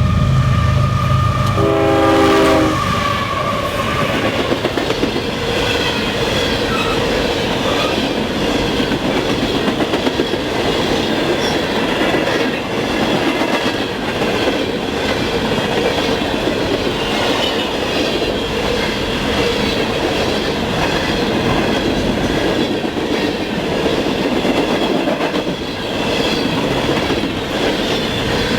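A freight train's horn sounds a short blast that ends between two and three seconds in, then the train's cars roll past in a steady rush, the wheels clicking over the rail joints.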